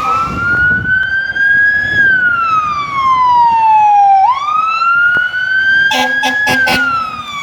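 Fire truck siren wailing, its pitch climbing slowly, falling away, then sweeping back up about four seconds in. Near the end a few short horn blasts sound in quick succession over the siren.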